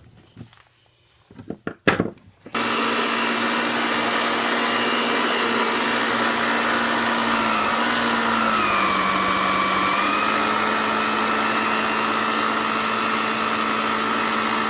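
Old Electrolux vacuum cleaner switched on after a few handling knocks, running steadily with its motor whine; the pitch sags a little midway and comes back up. It is running on a newly fitted replacement drive belt.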